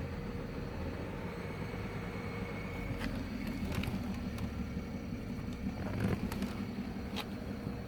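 BMW F11 528i's N53 straight-six engine running steadily, with a thin high squeak for the first few seconds and several sharp ticks scattered after it. The squeak is the engine noise the owner is documenting.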